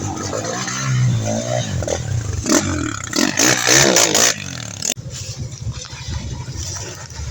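Enduro motorcycle engine revving hard, its pitch swinging up and down and loudest about three to four seconds in. About five seconds in it drops suddenly to a lower, steadier running.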